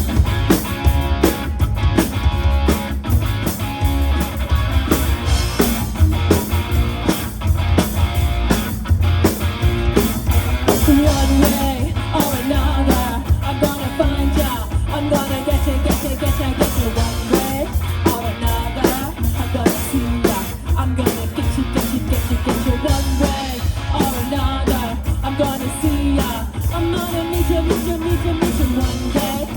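A live rock band plays with electric guitar, bass and drum kit on a steady driving beat, and a voice sings over it from about ten seconds in.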